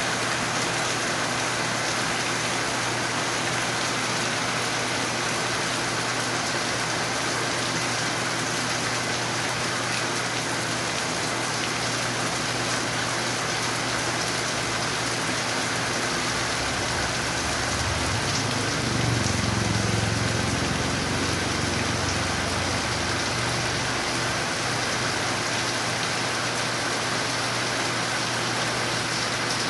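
Steady, heavy rainfall. A low rumble swells in about halfway through, peaks a few seconds later and fades out.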